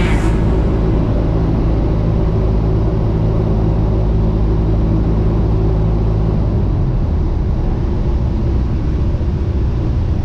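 Steady drone of a Cessna 172's piston engine and propeller heard from inside the cabin; its note changes about two-thirds of the way through.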